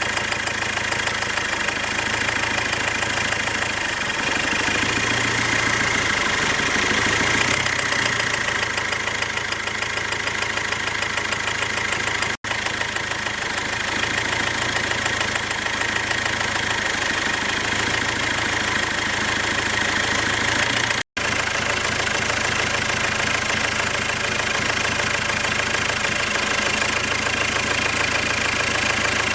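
Ford Transit engine idling hot with a steady knock from the fourth cylinder, which the owner takes for a knocking fuel injector. The hydraulic lifters, rockers and compression have been checked and are fine. The sound cuts out for an instant twice.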